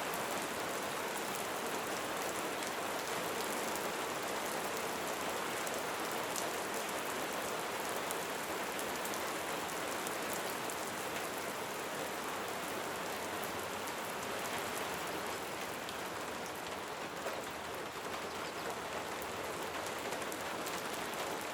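Light rain falling steadily, a dense patter of raindrops on surfaces with fine individual drop ticks.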